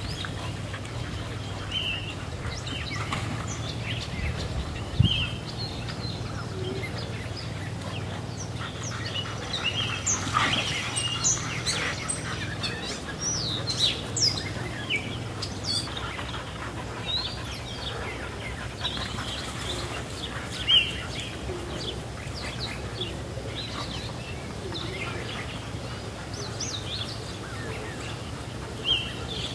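Small birds chirping and calling throughout over a steady low hum, with a single low thump about five seconds in.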